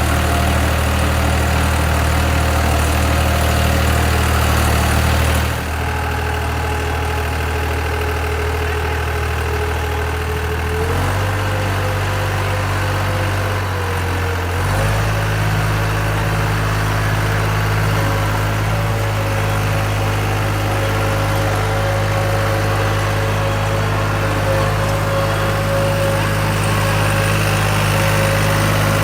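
Tractor engine running steadily, its note stepping to a different pitch a few times, about a fifth of the way in, then more than a third of the way in and again around halfway.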